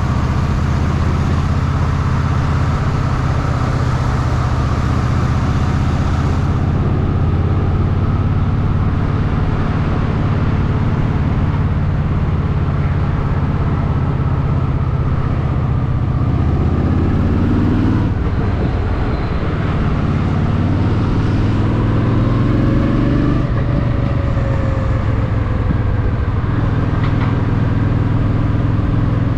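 Honda Shadow VT750's V-twin engine running steadily at low revs while riding, with a few brief rises and falls in pitch a little past halfway. A high hiss over the engine drops away about six seconds in.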